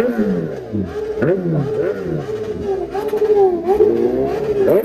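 Kawasaki ZX10R inline-four superbike with an SC Project exhaust being revved in quick throttle blips, its pitch rising and falling again and again.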